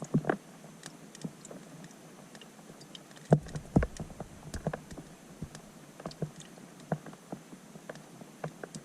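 Rain drops striking a pond's surface, heard underwater through a GoPro Hero 5 Black's waterproof housing as irregular small ticks and pops over a faint hiss. A couple of louder, deeper thumps come about three and a half seconds in.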